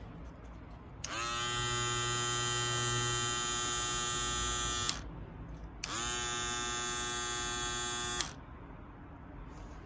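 Small electric motor of a PROXXON pen-shaped power tool switched on twice: each time it spins up with a quick rising whine, runs at a steady high whine (about four seconds, then about two and a half), and cuts off abruptly.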